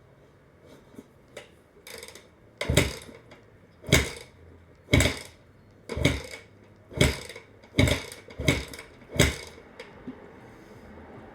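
Honda CRF250R's single-cylinder four-stroke engine being kicked over about eight times, roughly once a second, turning over with each kick but not catching: the bike won't start.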